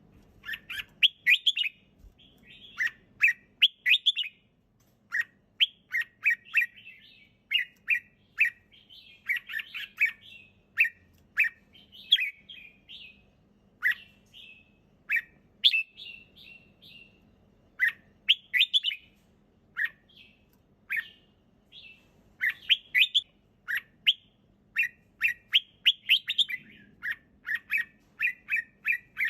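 Red-whiskered bulbul singing: short, quick phrases of bright chirping notes, repeated one after another with brief pauses between.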